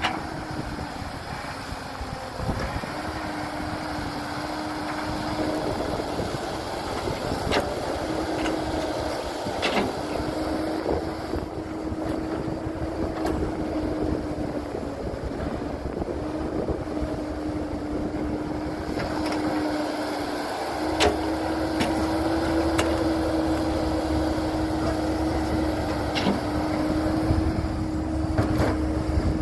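Heavy construction machinery engines running steadily, with a constant hum and a few sharp knocks. A deeper rumble joins about two-thirds of the way in.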